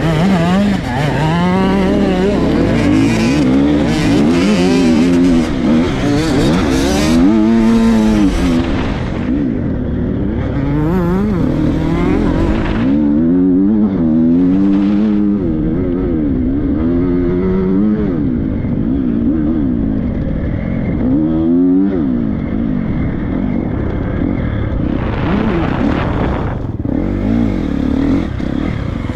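Triumph 250 motocross bike's four-stroke single-cylinder engine being ridden hard, its pitch rising and falling again and again as the throttle is opened and closed and the gears are changed. After the first third it runs at lower revs, with another hard burst of throttle near the end.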